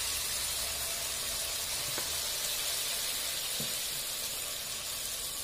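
Jalebi batter deep-frying in hot refined oil in a pan, giving a steady sizzle.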